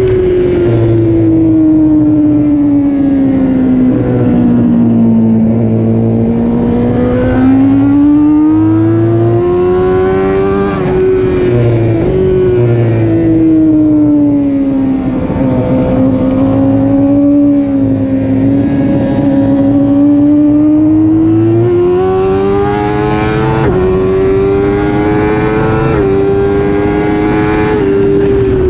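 Engine of a BMW S1000RR superbike, an inline-four, recorded on board at high revs through a race lap. The pitch sinks and climbs as the rider rolls off and opens the throttle through corners, with a few abrupt jumps in pitch at gear changes.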